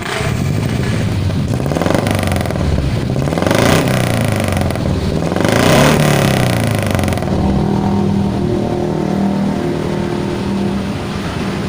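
Carburetted Suzuki Futura engine heard through its exhaust, revved up and back down about three times, then settling to a steady idle about seven seconds in.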